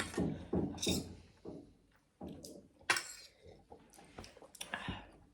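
A few light clicks and clinks of dishes and utensils at a meal, with one sharper click about three seconds in. There is a brief bit of voice at the start.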